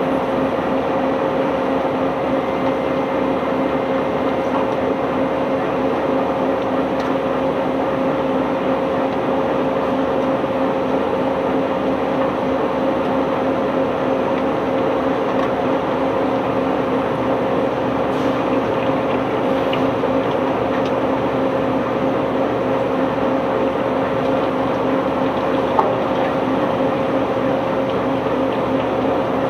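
Heavy unloading machinery running steadily: a constant engine drone with a steady hum.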